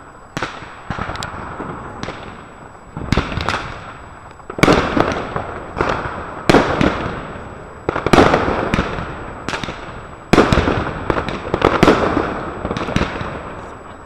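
Consumer firework batteries (cakes) firing shot after shot. Loud bangs come irregularly, one to several a second, and each is followed by a long echoing, crackling tail.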